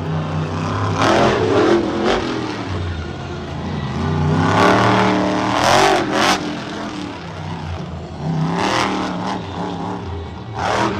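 Monster truck engine revving hard in repeated swells, its pitch climbing and dropping several times, with a few sharp bangs in between.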